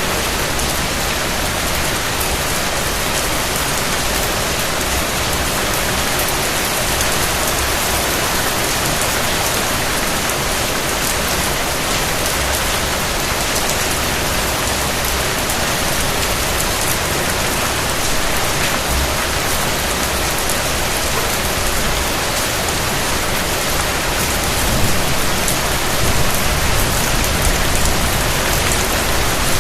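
Steady rain falling, an even hiss of many drops, growing slightly louder near the end.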